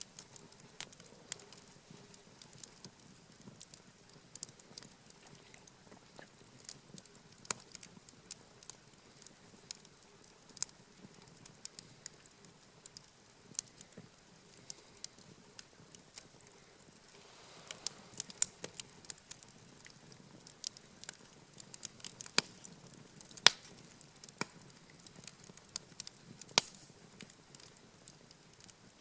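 Wood campfire crackling, with irregular sharp pops and snaps that come thicker and louder in the second half.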